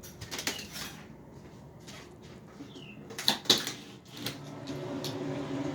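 Small songbird calling: short sharp chips and a brief falling call, the loudest chips about three and a half seconds in. A low steady hum comes in about four seconds in.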